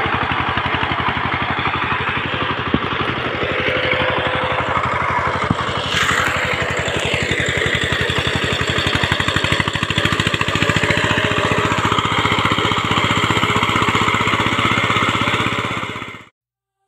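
Tractor engine running steadily under load, with a brief sharp high-pitched sound about six seconds in. The engine sound cuts off suddenly near the end.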